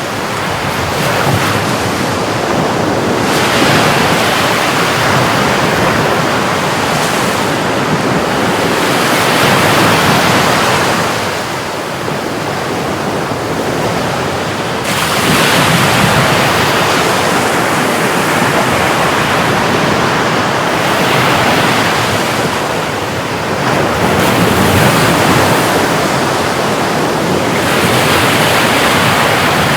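Sea surf washing in continuously, swelling with each incoming wave every several seconds.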